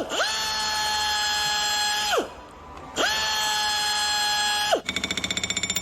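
A high-pitched drill runs twice, about two seconds each time, whining up to speed, holding, and winding down, as holes are drilled in an aircraft panel. Near the end a rivet gun starts a rapid, even rattle, driving small rivets into the panel.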